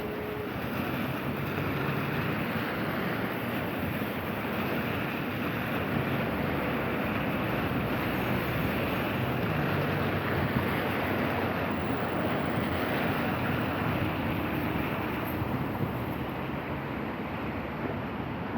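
Steady street noise on a rainy city walk: a wash of wet-road traffic hiss with a low engine hum, swelling slightly through the middle and easing near the end.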